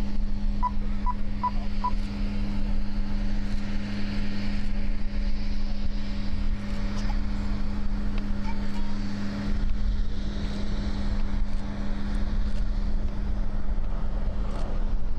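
B-2 Spirit stealth bomber's four turbofan jet engines rumbling low and steady as it flies past. A steady low hum fades about two-thirds of the way in, and four short electronic beeps sound near the start.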